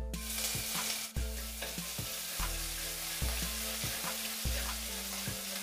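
Ginger paste sizzling in hot oil with nigella seeds and asafoetida in a metal kadai, a steady frying hiss. A flat metal spatula stirs through it with short scraping knocks against the pan.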